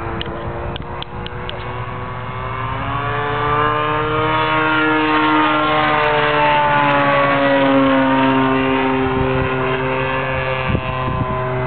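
DLE-30 single-cylinder two-stroke gas engine on a large RC aerobatic plane, spinning an 18x8 wooden prop, making a low pass: the engine buzz swells and climbs in pitch, then drops in pitch as the plane goes by, loudest about eight seconds in.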